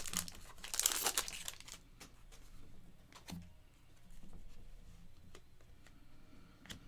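Foil trading-card pack wrappers crinkling and tearing as packs are handled and ripped open: dense crackling in the first two seconds, then scattered clicks and light rustling.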